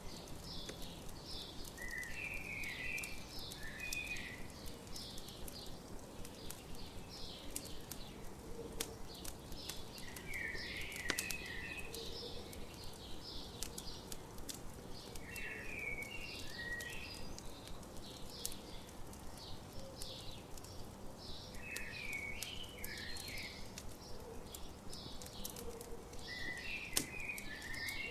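Campfire crackling with scattered sharp pops, under morning birdsong. One bird repeats a short song phrase about every six seconds, while others keep up a steady, higher chirping.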